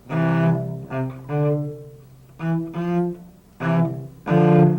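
Cello playing a short run of bowed double stops in thirds, about seven sustained two-note chords in pairs with brief breaks between them.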